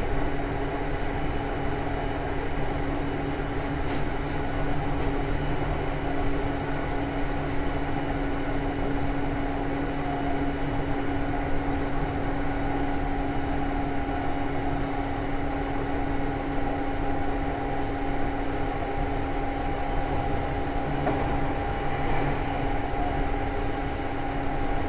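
Seibu 2000 series electric commuter train running at steady speed: an even rumble of wheels on rail with a steady motor hum.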